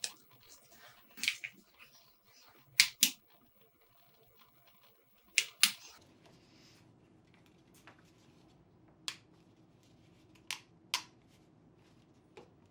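A series of sharp clicks and snaps, two quick pairs in the first half, then single clicks spaced a second or more apart.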